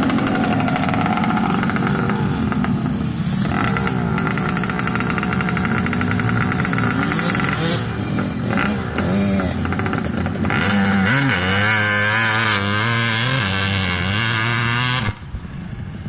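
Dirt bike engines running and revving, with the pitch rising and falling repeatedly as the throttle opens and closes. The sound drops away abruptly about a second before the end.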